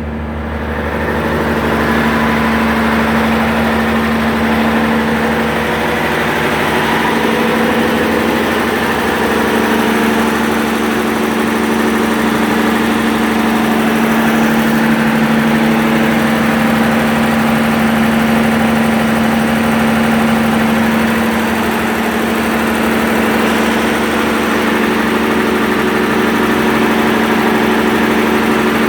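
PSI 11.1-litre six-cylinder natural gas engine running steadily under load at about 1500 rpm, driving an irrigation well pump. It grows louder over the first couple of seconds, then holds an even, steady hum.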